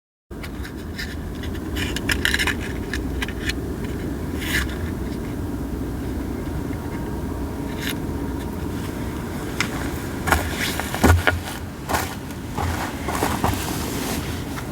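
Split sawtooth oak (kunugi) logs burning in a campfire, crackling with sharp pops scattered through, several close together about ten seconds in, over a steady low rumble.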